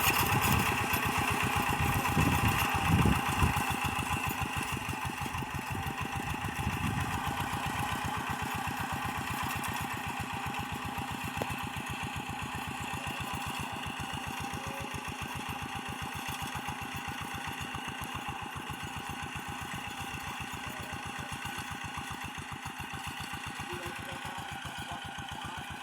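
Paddy-field tractor engine running with a steady, rapid firing beat, gradually growing fainter.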